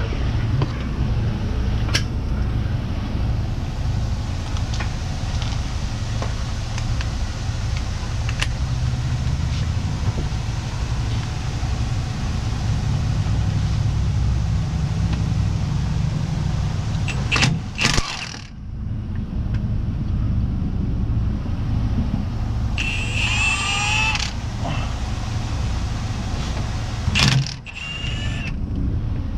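Truck engine idling steadily, with scattered clicks and two loud knocks, one a little past the middle and one near the end. About three-quarters through there is a short squeal with wavering pitch.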